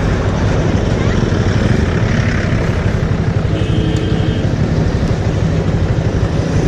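Bajaj Avenger motorcycle's single-cylinder engine running steadily under way, with wind and road noise over the microphone. A short steady high tone sounds for about a second midway.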